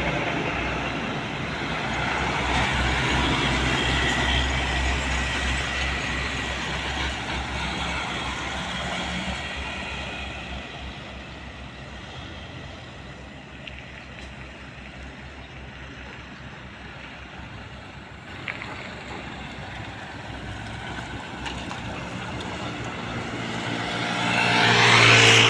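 Heavy trucks passing on a road. The engine and tyre noise of one dies away, and near the end another approaches and grows loud.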